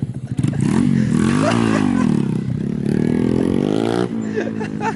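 Car engine revving, its pitch climbing and falling twice, with a sudden drop about four seconds in.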